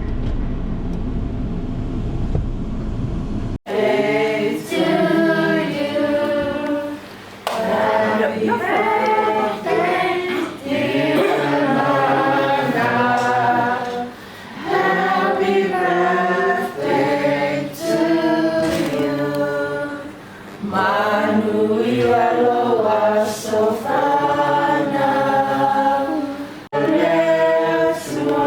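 A low rumble cuts off abruptly about three and a half seconds in. A choir then sings unaccompanied in harmony, in phrases with short breaks between them.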